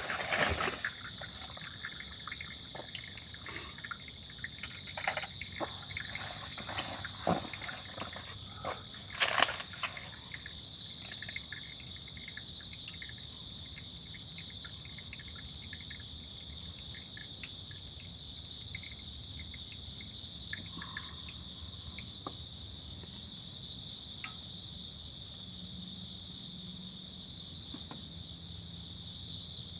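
Insects chirping: a steady high trill with pulsing chirp trains repeating about every second or two. A few clicks and knocks come in the first ten seconds, the loudest about nine seconds in.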